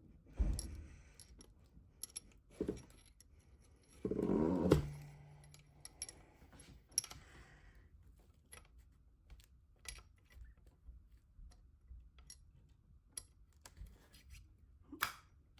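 Scattered small metal clicks and clinks as hand tools and valve parts are handled on an Audi A4 cylinder head while a valve spring compressor is worked. About four seconds in there is one louder scrape lasting under a second.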